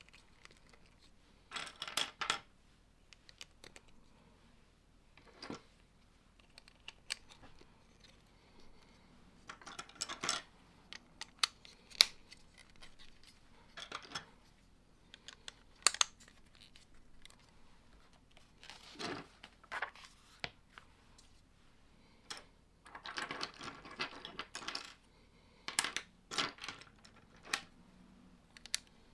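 Plastic Lego bricks clicking and rattling in short, irregular bursts as pieces are handled and snapped together, with a few sharper single clicks.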